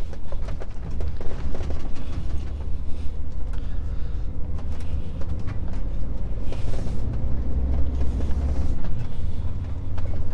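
Interior of a Scania S500 truck cab while driving: a steady low engine and road rumble with frequent knocks, creaks and rattles from the cab jolting over rough, broken tarmac.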